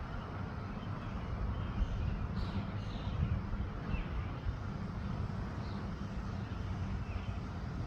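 Wind buffeting the microphone, a steady low rumble that swells and eases, with a few faint short chirps every second or two.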